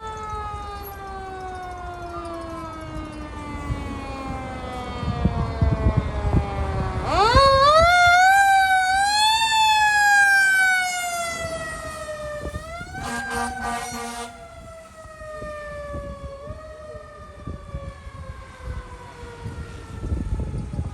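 Fire engine's mechanical siren winding slowly down in pitch, then wound back up sharply about seven seconds in and left to coast down again. It is loudest near its peak, with a steady horn blast of about a second and a half partway through the wind-down and a low engine rumble underneath.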